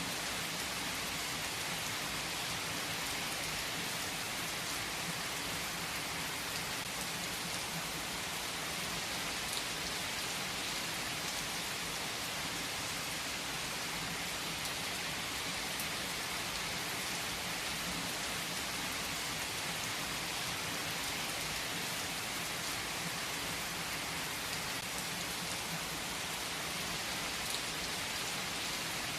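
Steady rain falling: an even, unbroken hiss with a few faint isolated clicks.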